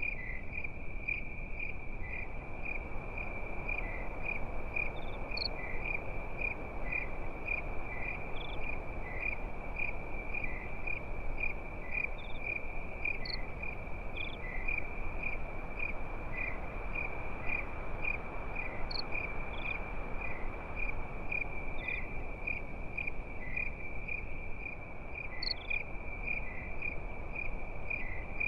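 Crickets chirping in a steady, fast pulsing trill, with a few brief higher chirps scattered over it and a steady low hiss underneath.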